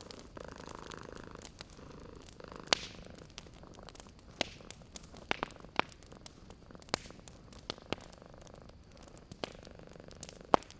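A cat purring steadily, close up, while a wood fire crackles with sharp, irregular pops, a few of them loud.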